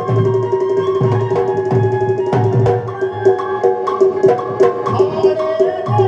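Instrumental Rai folk music: a drum beats a steady rhythm, about two low strokes a second, under a held drone note and a melody line.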